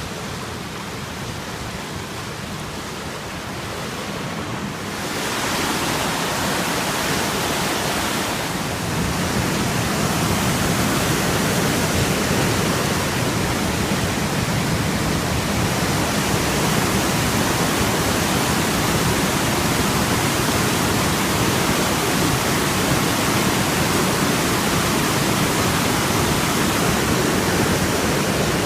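Swollen creek in flood, its water rushing in a steady, loud roar that grows louder about five seconds in and again about eight seconds in.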